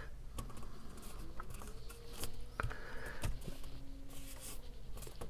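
Cardstock craft pieces being handled on a tabletop: scattered light clicks and taps with faint paper rustling.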